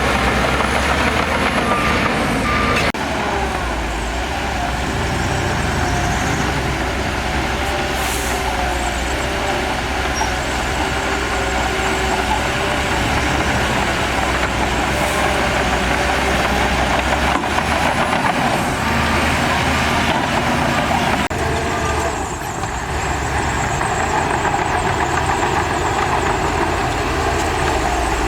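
Heavy earthmoving machinery's diesel engine running steadily under work, its tone shifting a few times, with an abrupt change about three seconds in.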